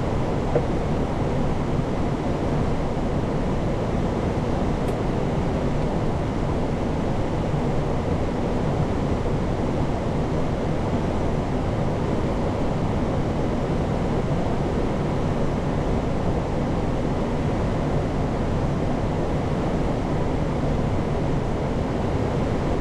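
Steady cockpit noise of an Airbus A340-600 in flight on approach: an even, unbroken rush of airflow around the flight deck, heaviest in the low end.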